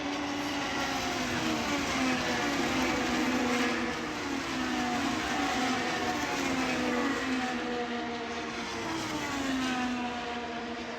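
Racing car engines running at speed, their pitch sliding down and climbing again several times as cars pass.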